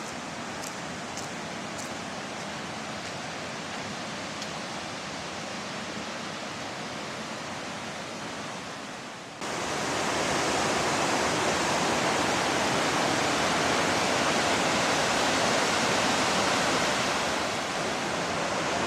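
Small river cascading over boulders in a waterfall: a steady rush of water, which jumps louder about nine seconds in.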